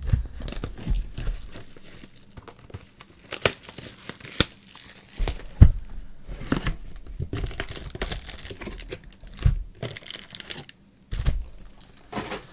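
Trading-card pack wrappers crinkling and tearing open by hand, in irregular rustles with one sharp snap about halfway through.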